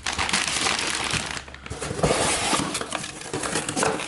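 Packaging being handled while parts are unpacked from a box: continuous rustling and crinkling of packing material, with scattered small knocks.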